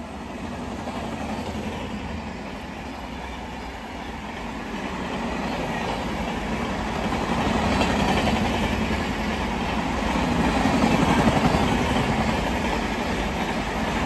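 A train passing at speed along the track, a steady rumble of wheels on rails that builds up and swells twice, about eight and eleven seconds in.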